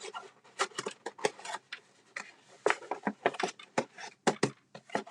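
Cardstock box and lid being handled: irregular light taps, clicks and rustles of paper.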